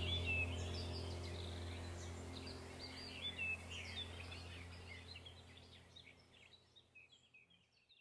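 Small birds chirping and twittering in quick, high notes over a low steady drone, all fading out to silence near the end.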